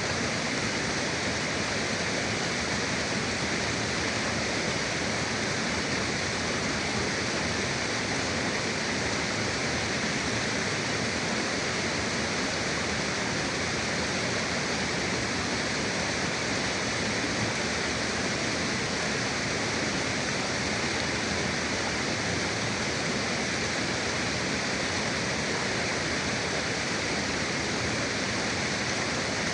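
Forest river flowing: a steady, unbroken rush of water over rocks.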